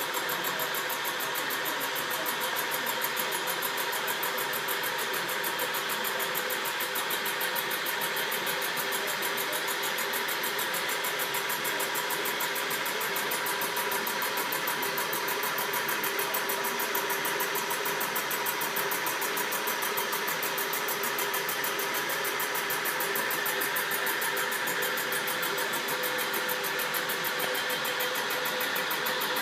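Metal-working surfacing machine running steadily as it takes the final skim cut across the face of a cylinder head, a steady whine with several held tones over an even hiss.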